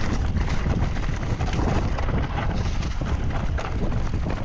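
Full-suspension enduro mountain bike, a Trek Remedy 9 RSL, riding down a rough trail: wind buffets the microphone over a constant rattle of tyres and frame, with many small knocks from the ground.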